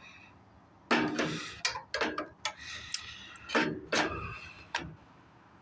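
Irregular clicks and knocks of hard machine parts being handled and fitted together, about seven or eight sharp taps at uneven spacing.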